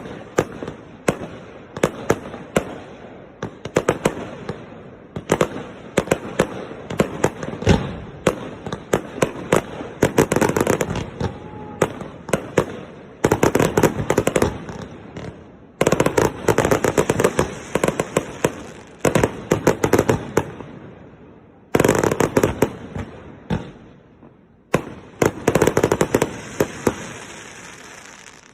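Large aerial fireworks bursting close by in a dense barrage: many sharp bangs a second with crackling between them. The volleys ease off briefly and start again abruptly several times.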